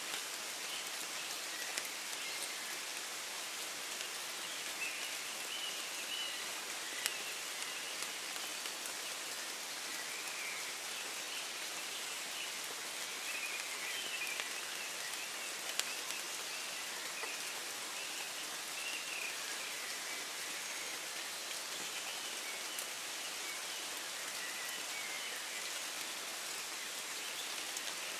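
Steady rain falling in woodland, a dense patter of drops with occasional sharper single drips. Faint birds sing through the rain now and then.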